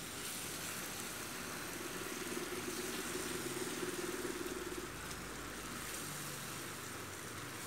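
Chili sambal terasi sizzling steadily in oil as it is stirred around a nonstick wok with a spatula.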